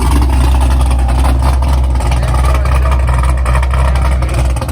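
Camaro Z28 drag car's V8 idling with a loud, steady low rumble.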